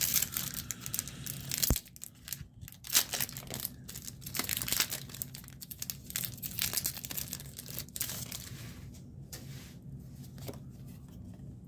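Foil Pokémon booster pack wrapper being torn open and crinkled: a run of crackly tearing and rustling for about eight seconds, then quieter handling.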